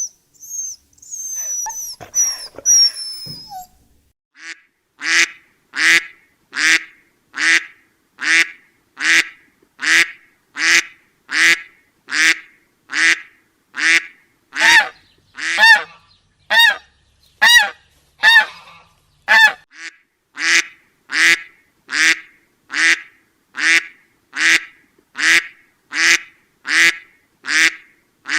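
A goose honking over and over in an even rhythm, about one and a half honks a second. In the first few seconds, before the honking starts, there are a few short high chirps that fall in pitch.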